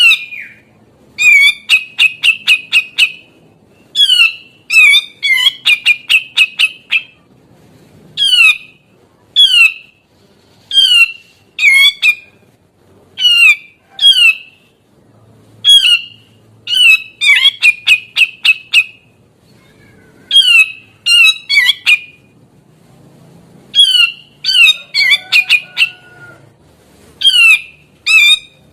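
Grey-cheeked bulbul (cucak jenggot) singing loudly and without let-up: harsh, sweeping call phrases, some single and some in rapid clusters, repeated every second or two.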